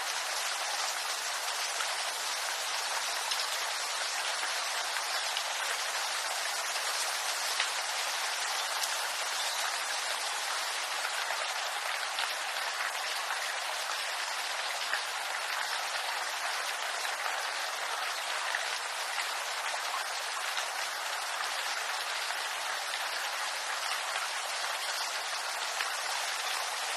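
Steady rain falling on bamboo, a dense even patter of many small drops hitting leaves.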